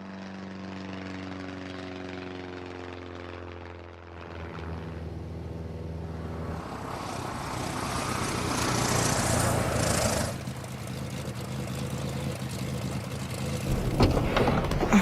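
Light propeller aircraft engine droning steadily for the first few seconds. Then a louder rushing noise builds and cuts off suddenly about ten seconds in, followed by a few sharp knocks near the end.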